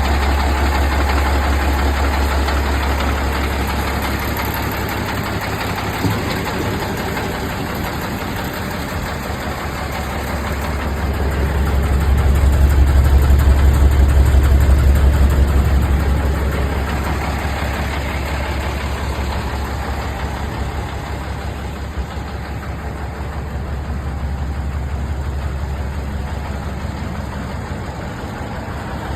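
Engine of a 2-1/2 ton 6x6 military truck idling steadily, growing louder for a few seconds in the middle before settling back.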